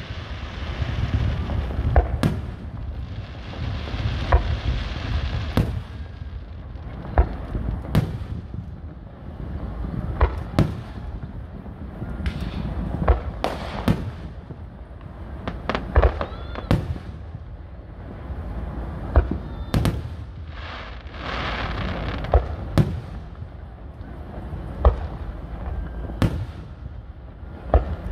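Aerial fireworks shells bursting in a display: a sharp bang every second or two, with stretches of crackling hiss between them.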